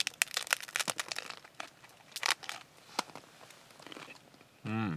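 Crunching bites into a taco shell and chewing: a quick run of crackly crunches at first, then a few more further on.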